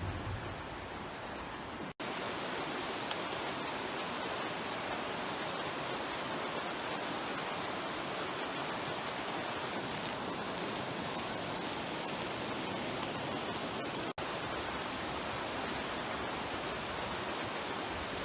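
Steady rushing of a nearby creek, with the sound dropping out for an instant twice.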